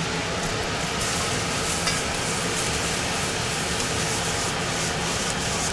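Green beans sizzling in oil in a hot wok, stirred and tossed: a steady frying hiss that turns brighter about a second in.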